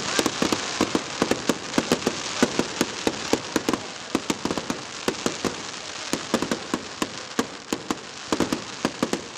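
Fireworks crackling: a rapid, irregular string of sharp pops over a steady hiss of burning sparks, thinning out for a moment midway and then picking up again.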